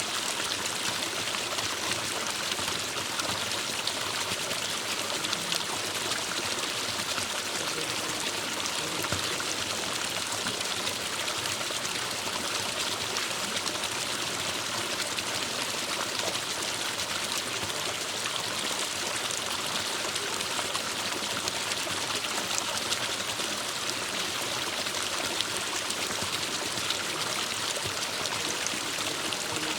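Forest stream running and trickling: a steady, even rush of water.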